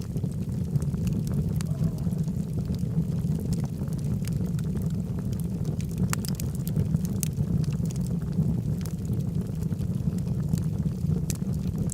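Wood logs burning in a fireplace: a steady low rumble of the flames with scattered sharp crackles and pops at irregular intervals.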